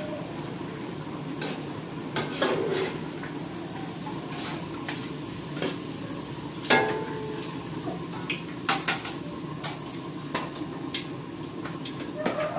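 Fritters frying in hot oil in a wok, a steady sizzle, while a metal spatula scrapes and knocks against the pan in scattered clicks and clanks. The loudest clank comes a little under seven seconds in.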